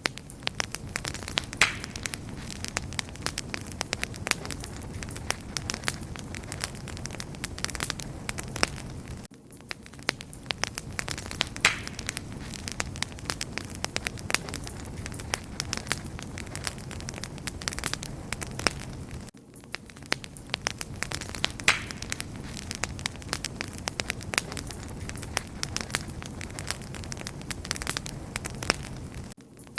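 Wood fire crackling and popping steadily: dense sharp snaps over a low rumble of flames. The sound briefly dips and the same loud pop returns about every ten seconds, as in a short looped recording.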